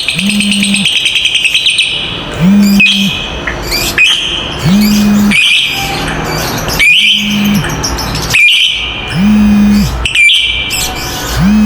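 Lovebirds chattering: a fast, harsh trill, then repeated shrill calls about every two seconds. Each call is paired with a low steady tone that comes and goes.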